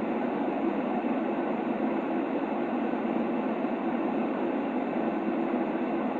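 Steady, unchanging band-limited noise with no pitch, concentrated in the mid range with little deep bass or high hiss: a white-noise track for soothing a baby.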